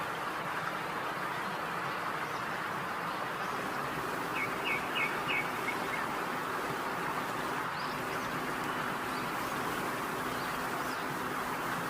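A steady, even hiss with a quick run of about five short, high bird-like chirps a little over four seconds in, and a few fainter chirps later on.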